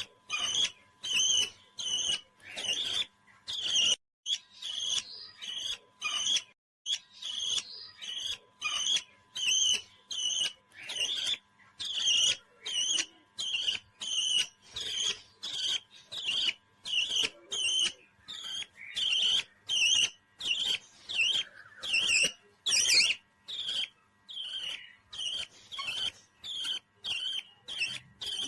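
A parrot calling over and over in short, sharp chirps, about two a second, with a brief gap between each.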